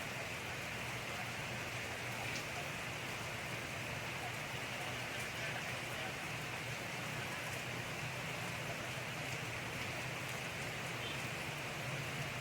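Steady rain falling, an even hiss of drops with occasional faint individual drop ticks.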